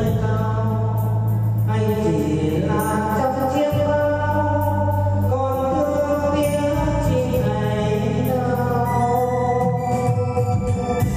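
Music from an electronic keyboard with an organ sound: a held melody changing note every second or two over sustained bass notes, with a light steady beat.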